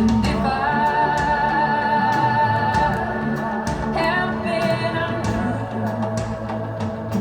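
Recorded song: a female singer holds long sung notes over a band with light, steady percussion, moving to a lower held note about four seconds in.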